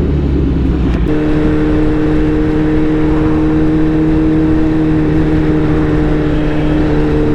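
2019 Suzuki Hayabusa's inline-four engine running at a steady pitch on the move, over a steady rush of noise. About a second in, the engine note steps to a new steady pitch and holds there.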